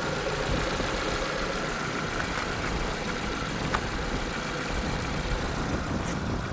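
Renault Scenic II 1.6 petrol engine (K4M 766 inline-four) idling steadily during an engine test.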